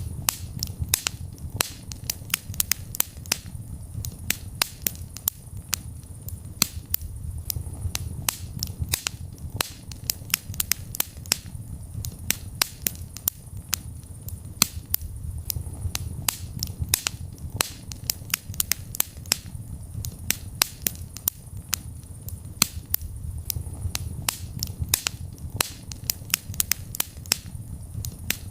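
Wood fire in a fireplace crackling: sharp pops and snaps several times a second, irregular, over a steady low rumble of the burning.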